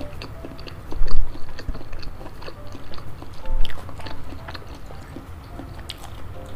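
Close-miked chewing of a mouthful of spicy food, with wet mouth clicks and smacks, and two louder low bumps about a second in and midway. Faint background music plays underneath.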